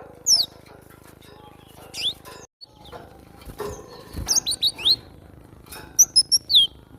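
Cinereous tit (glatik batu) calling: short, sharp high chirps, some sweeping down and some sweeping up, given in quick clusters of three or four notes.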